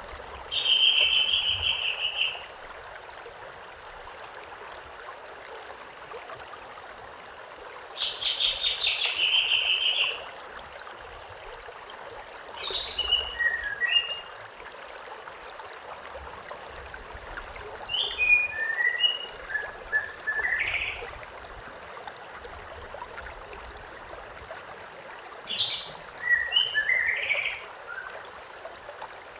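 A songbird singing five separate phrases, a few seconds apart, over the steady rushing of a stream. The first two phrases are long trills; the later three are made of several short whistled notes.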